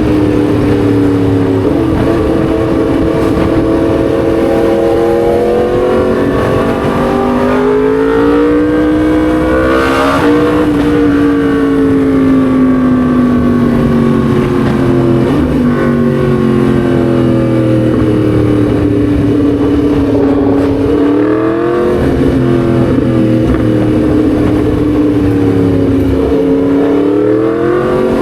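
Yamaha MT-10 SP's crossplane inline-four engine pulling on the road. The revs climb about eight to ten seconds in, then ease down slowly; there is another quick climb about twenty-two seconds in and again near the end, under a steady rush of wind and road noise.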